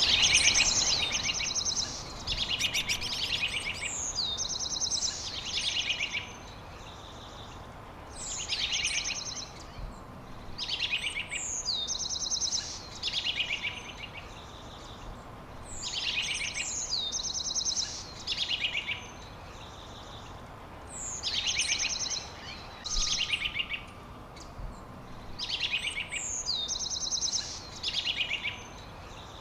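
A songbird singing repeated high phrases of fast trills and sharp falling notes, each a second or two long, in groups separated by short pauses, over a faint steady hiss.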